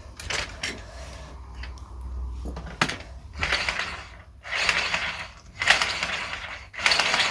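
Marbles rolling and rattling along a plastic GraviTrax marble run, with sharp clicks as they hit track pieces. The rattling comes in runs of about a second each from about three seconds in.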